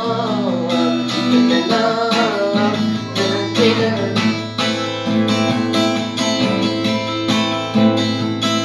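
Instrumental music: a guitar strumming a steady rhythmic accompaniment, with a gliding melody line over the first few seconds.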